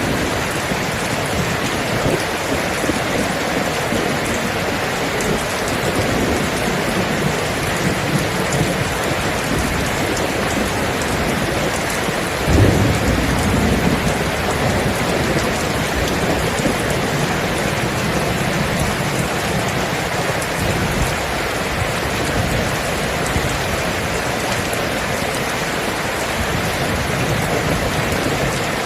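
Steady heavy rain, with a roll of thunder about midway that breaks with a sharp crack and rumbles away over a couple of seconds.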